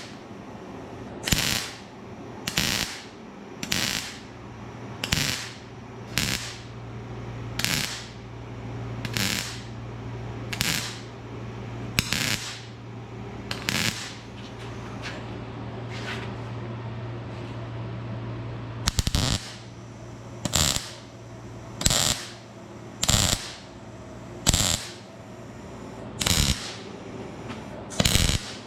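Welder laying a run of short tack welds on thin rusty fender steel: about seventeen brief crackling bursts, roughly one every second and a half, with a pause of a few seconds in the middle and a steady low hum underneath.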